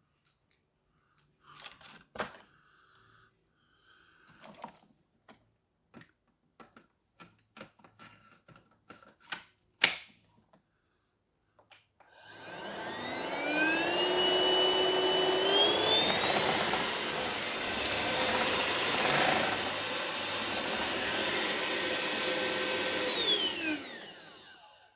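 Handling clicks and one sharp click, then a Hoover ONEPWR cordless stick vacuum switches on about halfway through, its motor whine rising in two steps to full speed. It runs steadily and winds down with a falling whine near the end.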